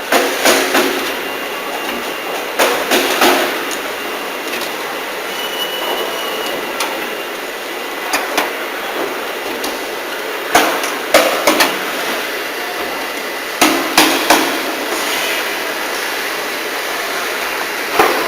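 Tank-making machinery on a factory production line. Clusters of sharp metallic clanks and knocks come every few seconds over a steady machinery hiss.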